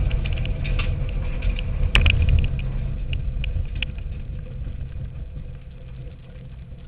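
Cabin sound of a Subaru Impreza N4 rally car: the turbocharged flat-four engine running as a low rumble, with scattered ticks and one sharp click about two seconds in. The sound fades gradually from about three seconds on.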